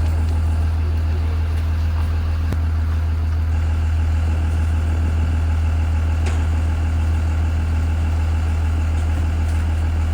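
2020 Blue Bird Vision school bus engine running steadily at idle, a constant low hum with no change in speed.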